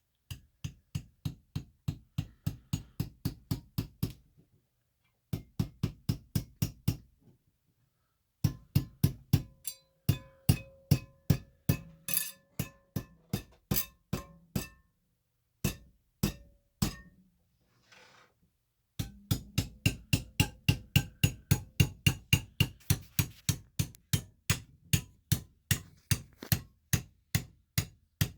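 Rapid hammer strikes, about four a second, splitting a slab of fossil-bearing rock. They come in several runs with short pauses between, and a faint ring sounds under some strikes in the middle.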